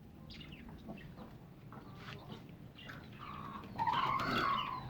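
Chickens clucking with short scattered calls, then a louder drawn-out call that rises and falls, about four seconds in.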